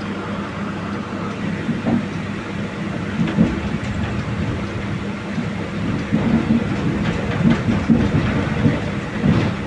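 Mumbai Mail express train running along the track: a steady rumble and low hum with irregular knocks and clatter from the wheels, getting busier and louder about two-thirds of the way through.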